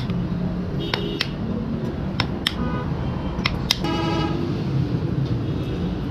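Hammer blows on steel in loose pairs about a second apart, each with a short metallic ring, over a steady low rumble.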